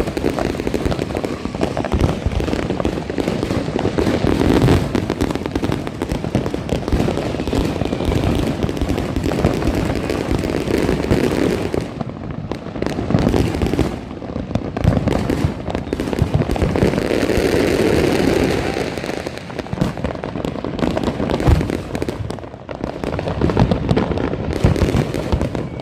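Fireworks and firecrackers going off all around in a dense, continuous crackle of overlapping pops and bangs, easing briefly a few times.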